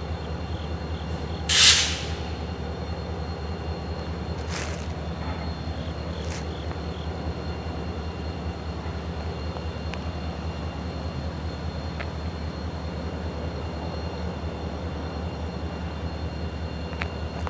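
EMD GP40-2 diesel locomotives running at a steady low drone. A loud, short hiss of air comes about a second and a half in, and two fainter hisses follow a few seconds later.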